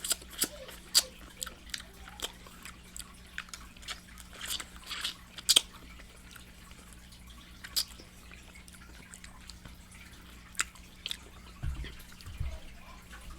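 Close-miked wet chewing and loud lip-smacking of someone eating fried chicken: irregular sharp, moist clicks, with a couple of low thumps near the end. A faint steady low hum runs underneath.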